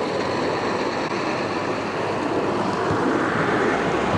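Tram running along the street: a steady noise of wheels and motors that grows a little louder near the end.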